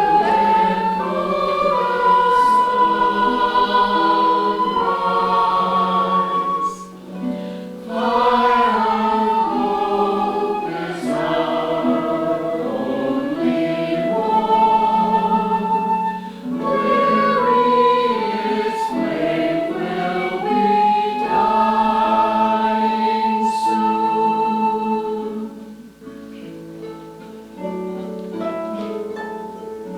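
A choir singing a Christmas concert piece with instrumental accompaniment, voices holding long notes between phrases. Near the end the singing stops and the accompaniment plays on more quietly.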